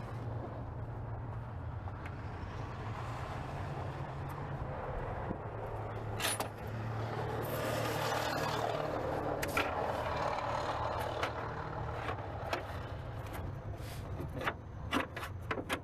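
A steady low engine-like hum throughout, with scattered sharp clicks and knocks of hand work on loose car parts, a stretch of scraping around the middle, and more clicks near the end.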